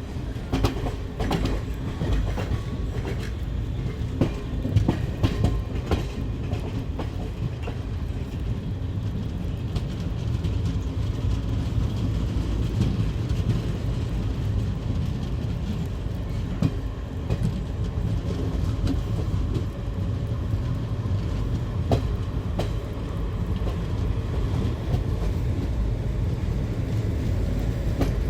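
Passenger train coaches rolling through a station, a steady low rumble with wheels knocking over the rail joints, the knocks coming thick in the first several seconds.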